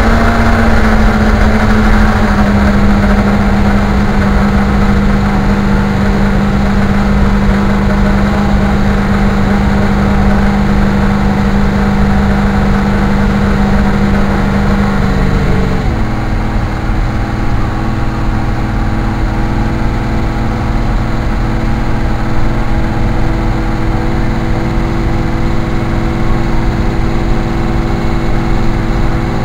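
Car engine running steadily under way with road noise. Its pitch drops about halfway through, then holds at the lower note.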